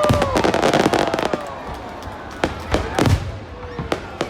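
Fireworks going off: a dense run of crackling pops in the first second or so, then a few scattered single bangs.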